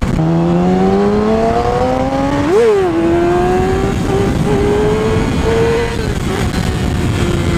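Motorcycle engine pulling up through the revs under acceleration, with a quick sharp rev spike about two and a half seconds in. It then holds a fairly steady speed and eases off slightly near the end, over a constant low rush of wind and road noise.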